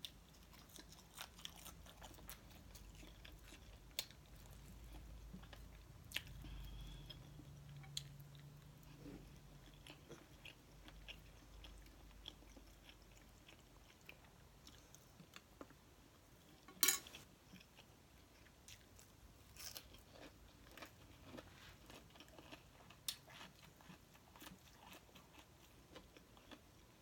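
Faint, close-miked chewing and biting of crispy fried chicken wings and rice, with scattered small crunches and clicks and one sharper click about seventeen seconds in.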